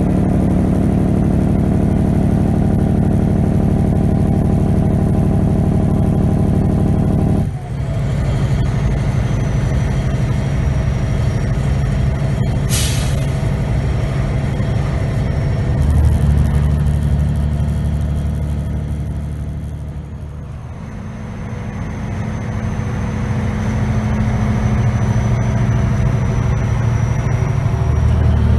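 Heavy American truck's diesel engine running steadily. Its note drops abruptly about seven seconds in, and a short sharp hiss of air comes about thirteen seconds in. The engine note sinks again around twenty seconds, then builds back up.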